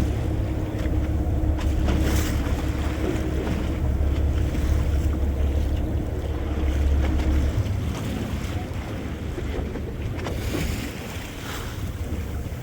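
Motorboat engine running with a low steady hum that drops away about seven and a half seconds in, over water sounds and wind on the microphone.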